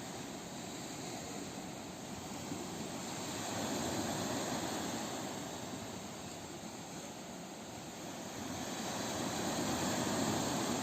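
Ocean surf: a steady rush of waves that swells louder about four seconds in and again near the end as waves break and wash in.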